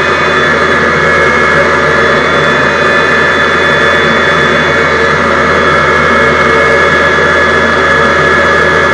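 Jet engine of the Hellfire jet truck running steadily: a loud, even rush with a steady high whine on top.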